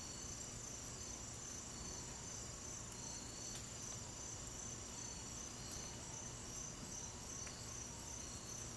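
Crickets chirping steadily, a high pulsing trill that keeps on without a break.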